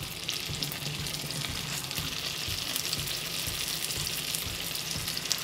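Breaded wild hog meat frying in hot oil in a frying pan, a steady crackling sizzle.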